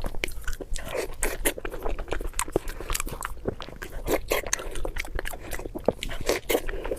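Close-miked chewing and biting: a person eating with irregular wet smacks and crunchy clicks.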